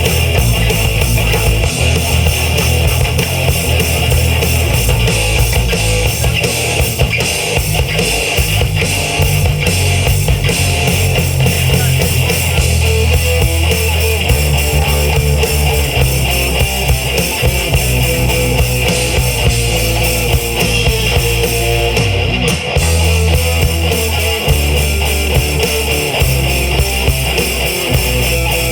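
A rock band playing loud: electric guitars over bass guitar and a drum kit, in a heavy rock style.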